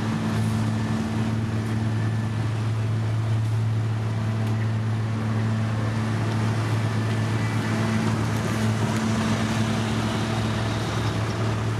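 Heavy construction machine's diesel engine running steadily with a constant low hum.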